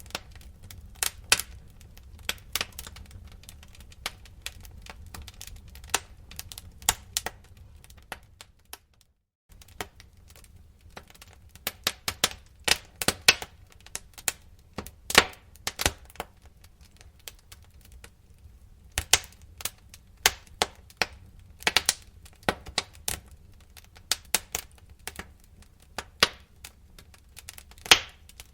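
Wood fire crackling in a fireplace: irregular sharp snaps and pops over a low steady rumble of the flames. The sound cuts out for a moment about nine seconds in.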